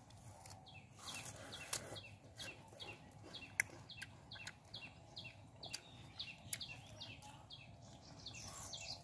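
A bird calling with a long run of short, high, downward-sliding chirps, about three a second, over scattered sharp clicks, one louder near the middle.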